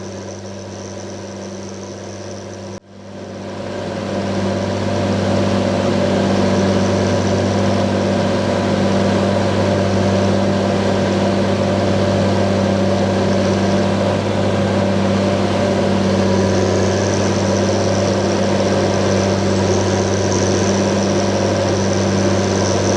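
John Deere 7920 tractor's 8.1-litre six-cylinder diesel running at a steady speed with a deep, even hum. After a brief dropout about three seconds in, it comes back louder, rises over a couple of seconds and then holds steady.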